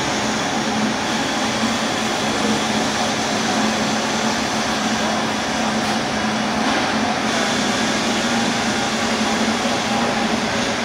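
A steady machine drone with a rushing noise, holding an even level throughout.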